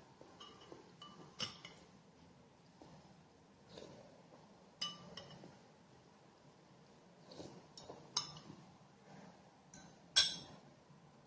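Spoon and fork clinking against a plate or bowl during a meal, several short separate clinks at irregular intervals, the sharpest near the end.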